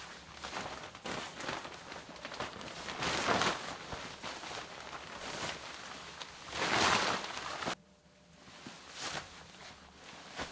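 Footsteps crunching through snow: irregular crunches with two louder stretches, the first about three seconds in and the second around six to seven seconds, cutting off abruptly before eight seconds.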